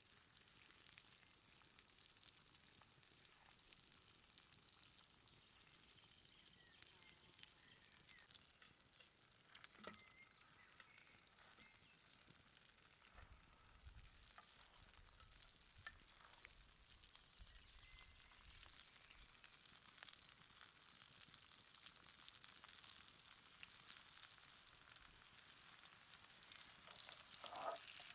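Faint sizzling of a T-bone steak cooking over a campfire, with a few soft clicks and a short, louder knock near the end.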